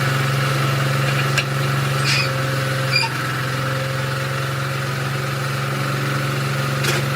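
Mercedes heavy truck's diesel engine idling steadily, a low even hum, with a few faint clicks over it.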